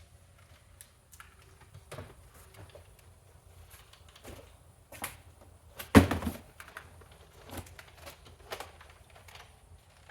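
Handling of cordless vacuum parts and boxes: scattered light clicks and knocks of plastic and cardboard, with one louder thump about six seconds in.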